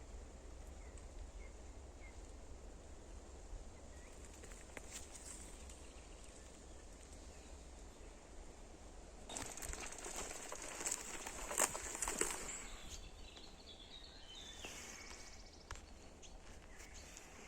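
Forest birds singing faintly, with a louder burst of crackling, rustling noise from about nine to thirteen seconds in, followed by a short bird song phrase.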